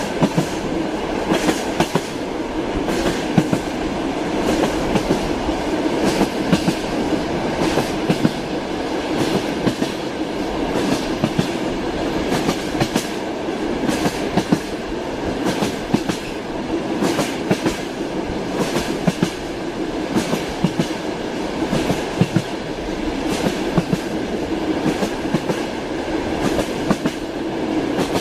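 Train in motion: a steady rumble with the clickety-clack of its wheels striking the rail joints, a quick uneven run of clacks that carries on throughout.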